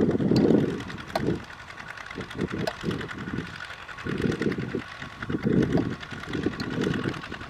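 Kubota mini tractor's engine running while it plows, a steady hum with uneven low surges and scattered clicks.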